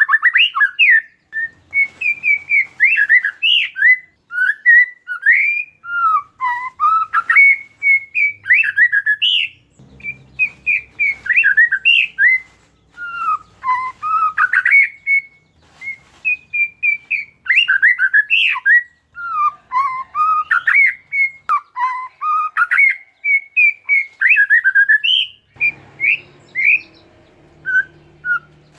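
Oriental magpie-robin (kacer) singing in full voice: a fast, varied song of short whistled notes that swoop up and down, strung together with only brief pauses.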